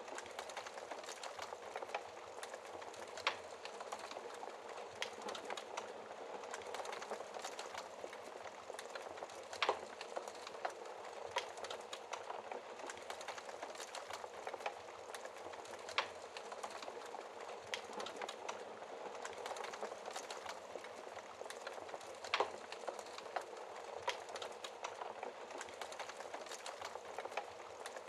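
A wood campfire crackling: a steady hiss of burning with constant small crackles, and a handful of sharper pops.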